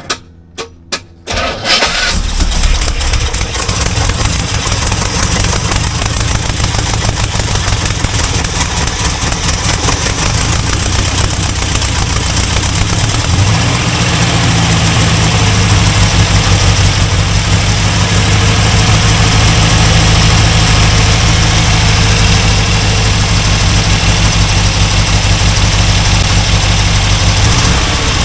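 Chevrolet 350 small-block V8 in a C4 Corvette, fed by an Edelbrock carburettor, giving a few sharp pops as it cranks, then catching about two seconds in and running steadily, a little louder from about halfway. The freshly reinstalled engine runs with no rod knock.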